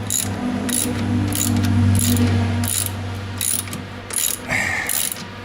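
Hand ratchet clicking in short runs, about one every two-thirds of a second, as screws are backed out of a snowmobile body panel, over a steady low hum.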